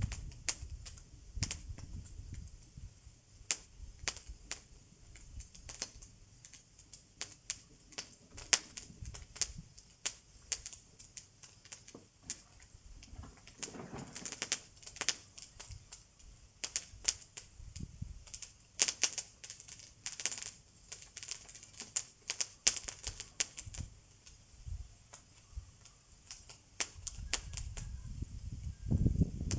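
Wood bonfire crackling, with many sharp irregular pops and snaps.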